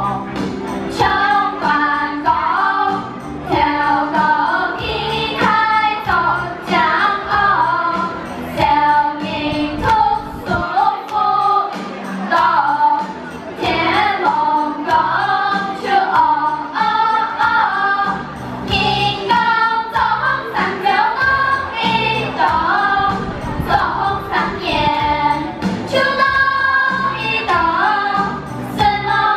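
Voices singing a Hakka-language children's song together as a group, over musical accompaniment.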